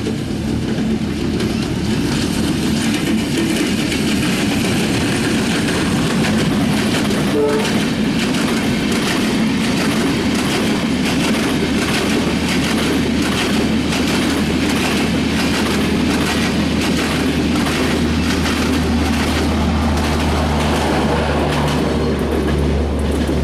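A diesel-hauled passenger train passing close by, its coach wheels clattering in a steady clickety-clack rhythm over the rail joints. The clatter stops near the end as the last coaches go by.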